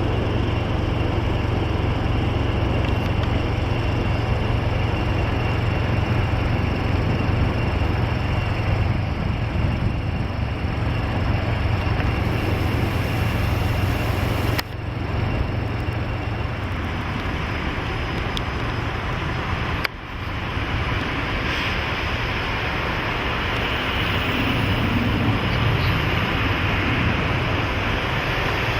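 Steady engine rumble of a heavy jet arriving at the runway, over a low steady hum. The sound dips briefly twice, about 15 and 20 seconds in, and grows fuller in the last third.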